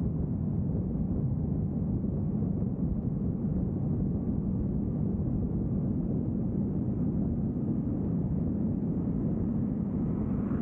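Steady low rumble of a vehicle driving along a road, tyre and engine noise at an even level.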